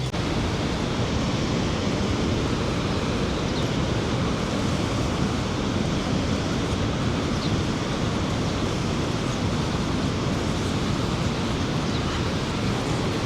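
Rhine Falls waterfall, a steady, even roar of rushing water.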